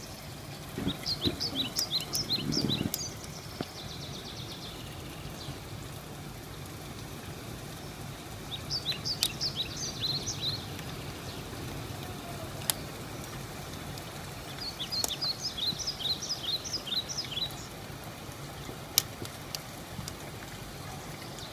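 Steady hiss of rain. Over it, a songbird sings a short phrase of quick, high, downward-slurred notes three times, about six seconds apart. There are a couple of sharp ticks in the latter half.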